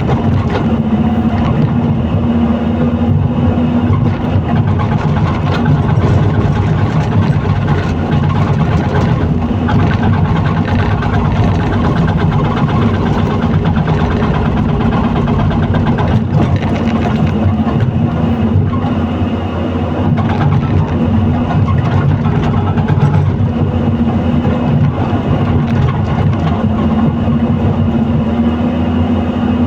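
Excavator's diesel engine running steadily with a loud, even hum, with a few faint knocks.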